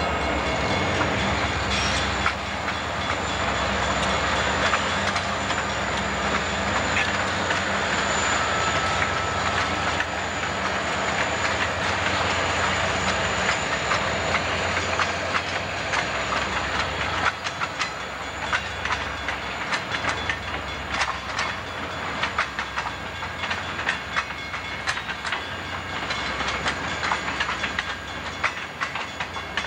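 Diesel freight locomotives running as they pass, then double-stack container cars rolling by. The engine drone eases off after about seventeen seconds, leaving steady wheel clicks over the rail joints.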